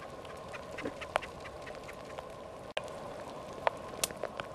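Light rain falling outdoors: a steady patter with scattered sharp drops ticking close by, irregularly spaced.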